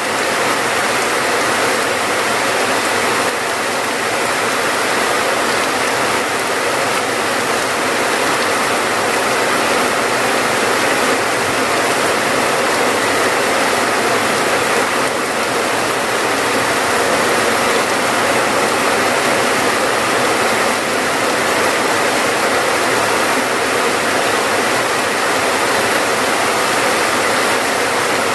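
Steady rainfall: a dense, even hiss of falling water at a constant level.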